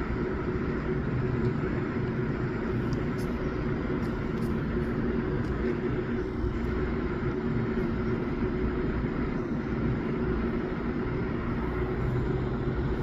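A steady machine hum: a low drone with a few constant pitched tones over a noise haze, unchanging throughout.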